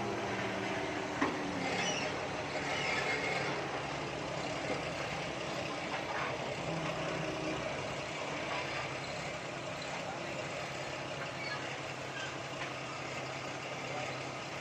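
A truck's engine running steadily with a low hum, with some faint clanks.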